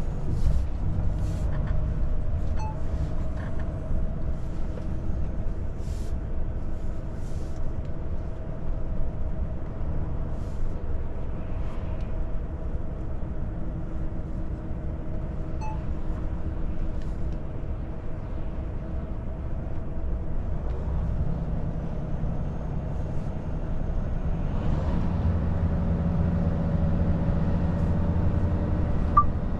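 Volvo FH 500 truck's six-cylinder diesel engine and road noise heard from inside the cab while driving, a steady low hum with a few faint clicks in the first several seconds. The engine sound grows louder about two-thirds of the way through.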